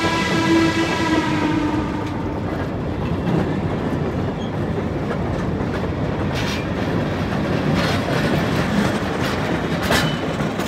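Coal hopper cars and a caboose rolling past on the rails, with three sharp clanks at about six and a half, eight and ten seconds in, the loudest near the end. A train whistle's held note carries over from before and fades out within the first two seconds.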